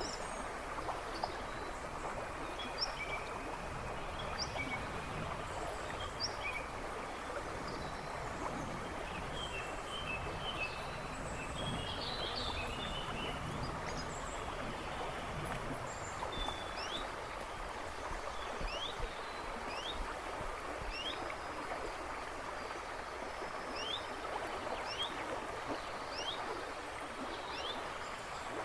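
River rushing and babbling steadily over stones, with birds chirping in the woods behind. From about halfway through, one bird repeats a short downward-sliding note about once a second.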